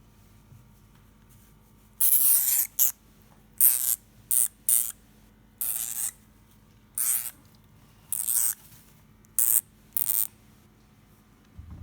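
Agitated hamster hissing in about ten short, sharp bursts spaced irregularly, some brief puffs and some longer hisses, the sound of an angry, defensive hamster.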